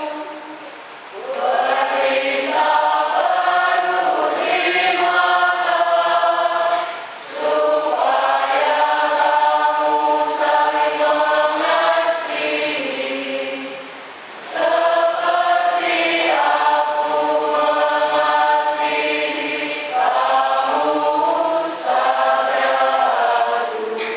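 Church choir singing a hymn in long sustained phrases, with short breaks between phrases about every six to seven seconds.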